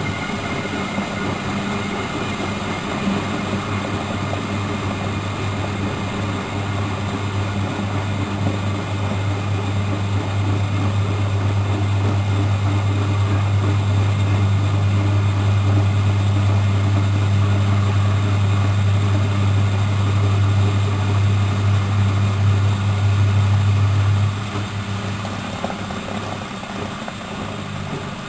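Miele Professional WS 5105-C washing machine running with a steady, loud low hum that slowly grows louder, then drops off abruptly near the end.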